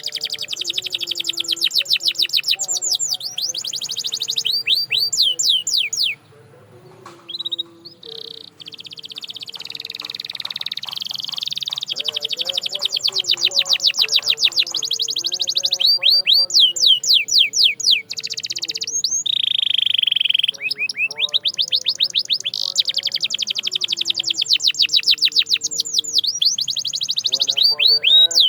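Domestic canary singing in long, fast trills of rapidly repeated high notes, broken by brief pauses about six seconds in and again near eighteen seconds.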